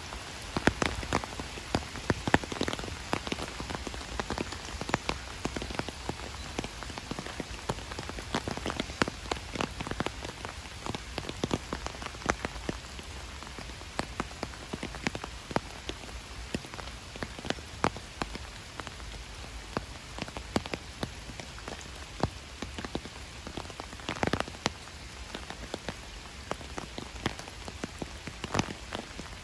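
Steady rain falling on a lake, with many sharp taps of single drops landing close by, scattered irregularly throughout.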